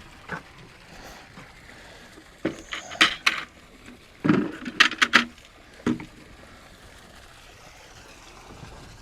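A few sharp clicks and knocks: one about two and a half seconds in, a short cluster around three seconds, a denser cluster around four to five seconds, and a last knock near six seconds.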